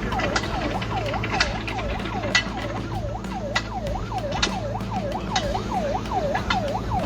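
Emergency vehicle siren in a fast yelp, its pitch sweeping down and back up about three times a second, over a steady low hum.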